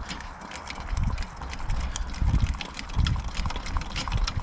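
Hand pump plunger on a Coleman Feather 400 white-gas stove being worked to pressurize the fuel tank: a low thud with each stroke, roughly once a second, with light clicking between strokes.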